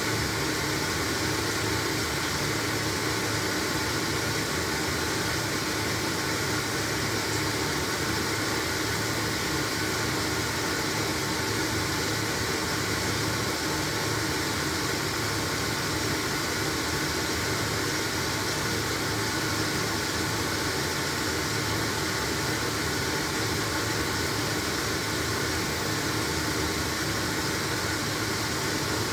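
LG washing machine running a load of blankets, a steady mechanical hum and whir with no knocks or pauses.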